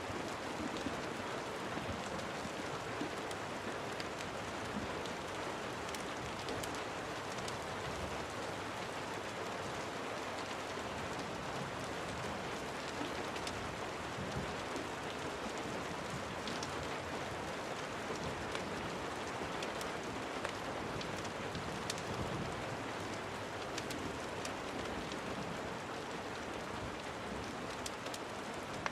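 Steady rain falling, an even hiss, with scattered sharp ticks and pops throughout.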